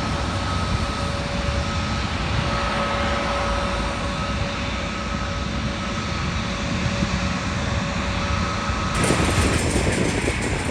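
Jet airliner engines running with a steady whine over a broad rush of noise. About nine seconds in the sound changes abruptly: the whine drops out and a rougher, gustier noise takes over.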